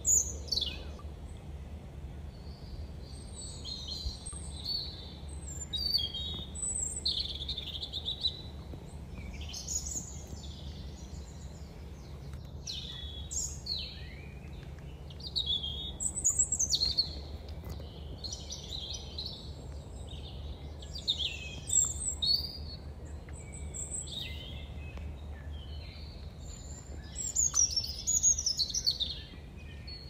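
Several songbirds singing and calling, a busy run of short high chirps and trills that come and go, with a low steady rumble underneath.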